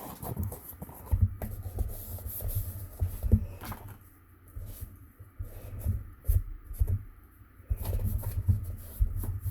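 Cardstock and a cardboard box being handled and pressed down by hand: paper rubbing and rustling, with a few light knocks against the table. Quieter in the middle, livelier near the start and end.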